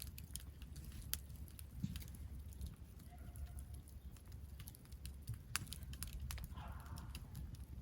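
Wood campfire crackling: scattered sharp pops and snaps of burning wood over a low, steady rumble. A faint, brief call sounds about three seconds in.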